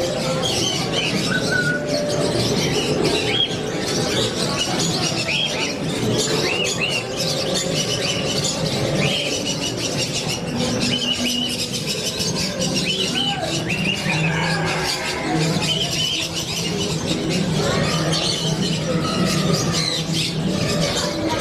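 Parrots chirping and squawking, many short calls overlapping in a steady chatter.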